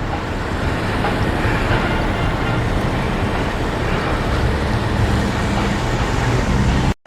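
A passing train: a steady heavy rumble with rail noise that grows slightly louder, then cuts off suddenly near the end.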